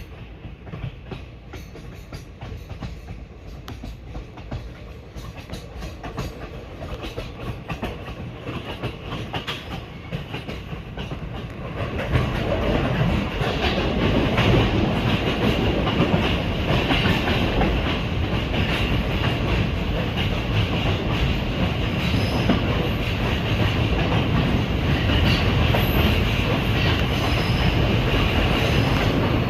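Passenger train running along the track, its wheels clattering over the rails with a steady rumble. About twelve seconds in the sound jumps suddenly louder and stays loud.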